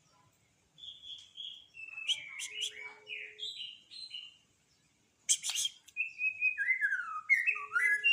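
Songbird singing in short chirping, sliding phrases, falling silent for about a second just before the middle, then a denser run of notes, with a few sharp clicks among them.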